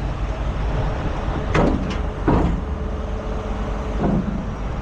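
Truck engine idling steadily, with four short sharp knocks between about a second and a half and two and a half seconds in.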